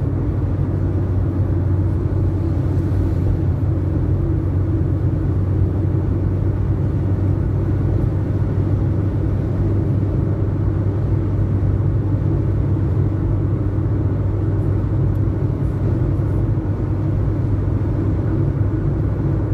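Steady low rumble of a vehicle being driven, heard from inside the cabin: engine and road noise with strong sandstorm wind against the vehicle. It runs evenly, with no sudden changes.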